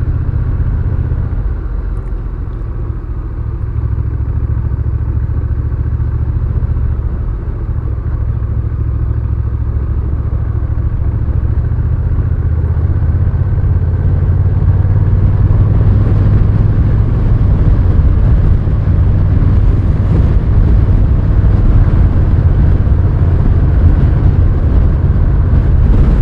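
Honda Rebel 1100's parallel-twin engine running steadily under way, getting louder through the second half.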